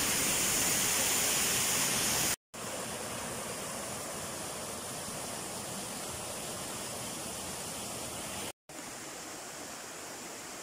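Waterfall: a steady rush of falling water. It drops out for a moment twice, about two and a half seconds in and again near the end, coming back a little quieter each time.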